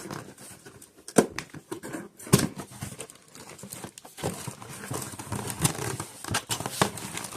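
Packaging crinkling and rustling as a new air filter kit is unwrapped and handled, with several sharp knocks, the first about a second in.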